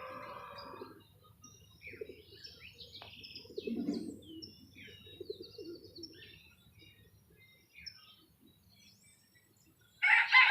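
Small birds chirping in short, scattered high calls, with a few lower calls around the middle. Near the end a rooster starts to crow loudly.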